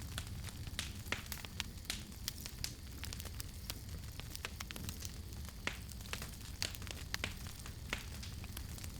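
Campfire crackling: irregular sharp pops and snaps of burning wood over a steady low rumble and hiss of the flames.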